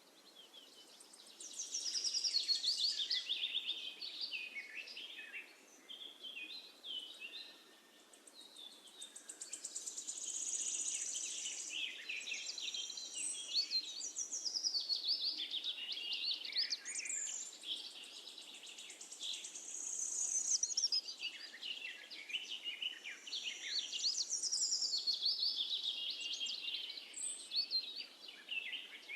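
Songbirds singing together: many overlapping high chirps, whistles and trills, the chorus swelling and easing off in turns.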